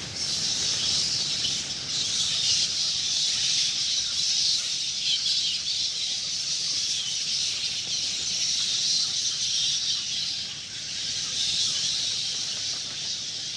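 A dense, steady chorus of many high-pitched animal calls.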